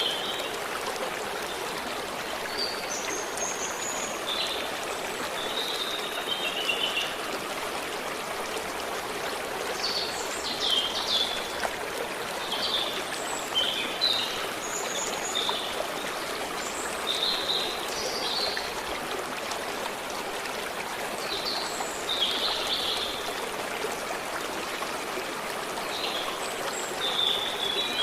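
Forest stream running steadily, with small birds chirping in short calls every second or two over the water.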